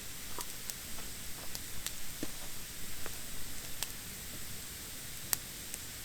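Wood fire of damp branches burning in a fire pit: a steady hiss with scattered sharp crackles and pops, the loudest about five seconds in.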